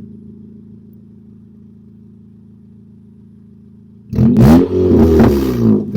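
Nissan Sentra 1.8-litre four-cylinder engine heard through its stock exhaust, idling quietly and steadily, then revved hard about four seconds in, the pitch swooping up and down in quick blips and easing off for a moment just before the end.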